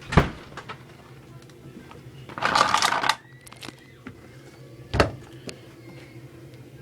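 Handling noises while a Hoover tumble dryer is loaded with washing: a sharp thump, a short rustling burst about halfway through, and another sharp thump near the end, over a faint steady low hum.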